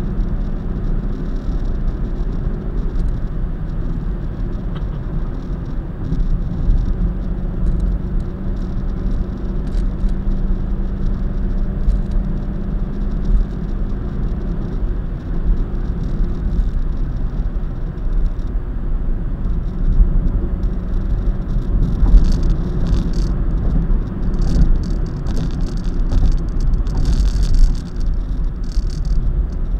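Steady low road and engine rumble of a car driving at expressway speed. Scattered light clicks and rattles come through in the last several seconds.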